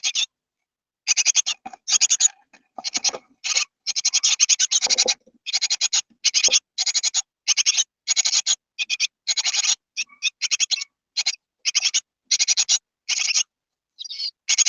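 Great tit nestlings, 19 days old, giving rapid raspy begging calls. The calls come in short bursts, one after another, with brief silent gaps.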